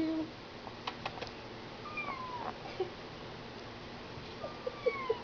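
Sphynx kitten mewing faintly: two thin, high mews that fall in pitch, about two seconds in and again near the end, with a few faint clicks in between.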